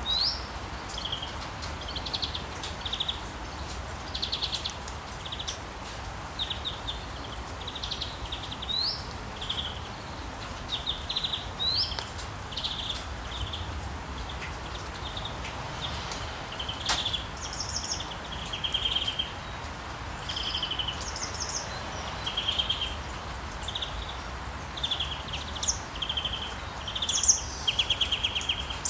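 Rainforest ambience: many short bird chirps and quick trills, some rising sharply in pitch, calling over a steady background hiss.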